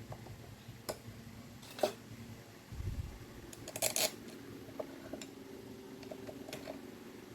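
Scattered clinks and scrapes of small metal parts and tools being handled, with a low thump about three seconds in and the loudest clatter about four seconds in.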